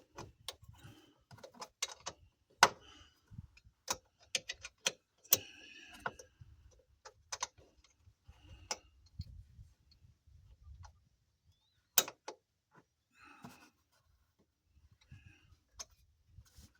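Irregular clicks, knocks and metallic clinks of hand tools working on metal parts of a truck's engine bay, with two louder sharp knocks about two and a half seconds in and about twelve seconds in.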